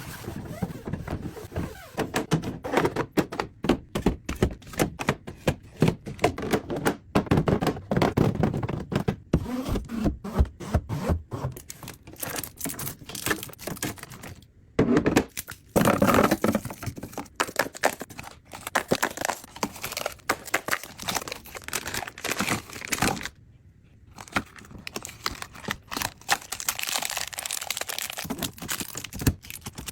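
Packaging crinkling and tearing among many quick knocks and clacks of containers being handled and set down while a fridge is restocked.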